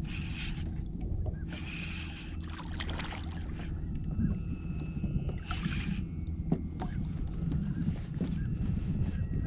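Kayak on open water: steady low wind buffeting the microphone, with several short bursts of water splashing and sloshing against the hull.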